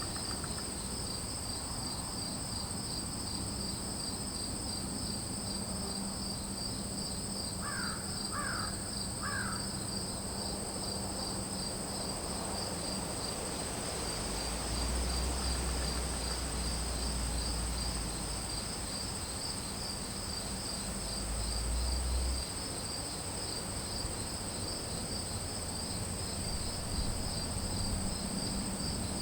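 A steady chorus of insects at two high pitches, one a fast pulsing trill. An animal gives three short calls about eight seconds in, and a low rumble comes and goes in the middle.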